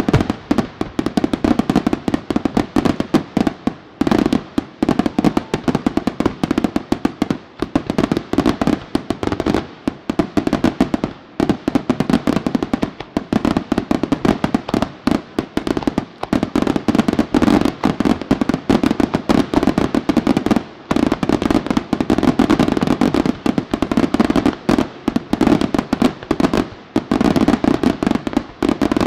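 Aerial fireworks shells bursting in a dense, continuous barrage, many loud bangs a second with crackling stars among them.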